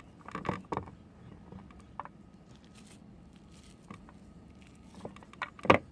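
Bars of soap being handled: short scraping clicks and scattered taps, then a quick run of louder, sharp knocks near the end.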